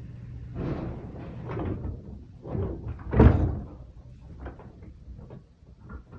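A series of irregular knocks and bangs from construction work in the building, muffled through the apartment's walls, the loudest about three seconds in.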